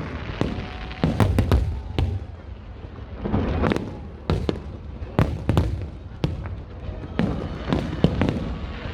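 Aerial fireworks going off in irregular clusters of sharp bangs and crackles over deep booms.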